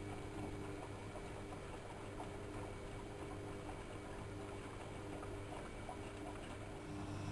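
AEG Electrolux Lavamat L6461 washing machine running its wash cycle: a steady motor hum with light, irregular ticking from the tumbling drum. It grows a little louder near the end.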